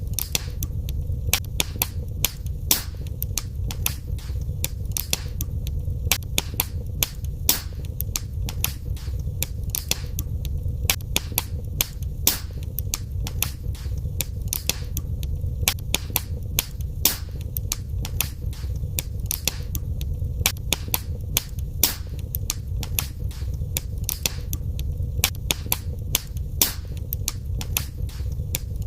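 Wood fire burning in a fireplace: dense, irregular crackles and pops, several a second, over a low steady rumble of the flames.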